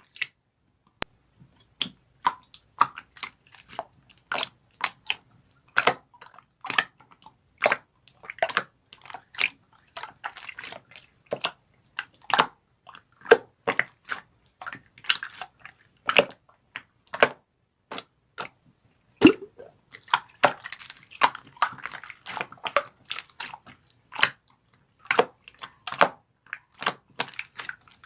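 Irregular crackling clicks and soft squishes of a heart-glitter handmade toy being squeezed and handled, several small crackles a second, busiest in the second half.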